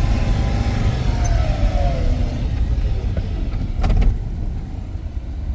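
Plow truck engine running with a steady low rumble, heard from inside the cab, with a whine that slides down in pitch between about one and two seconds and a short knock near the end.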